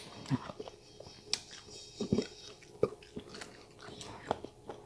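A person chewing stir-fried chicken gizzards with wet mouth smacks, and a few light clicks scattered through.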